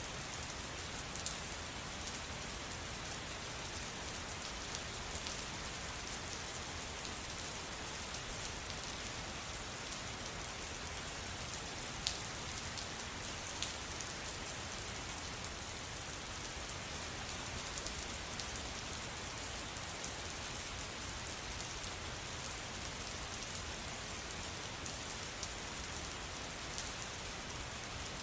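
Steady rain falling, an even hiss with a few sharper individual drop hits scattered through it, the clearest about twelve seconds in.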